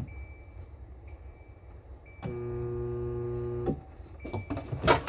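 Countertop dishwasher's motor humming for about a second and a half, then cutting off suddenly, with a few knocks near the end. The motor hums but the wash arm does not turn, as if something is stopping it from spinning.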